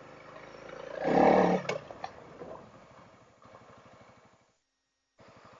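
Honda CRF300L's single-cylinder engine running under the rider, with a brief throttle swell about a second in that dies back down, and a couple of sharp clicks just after. The sound cuts out briefly near the end.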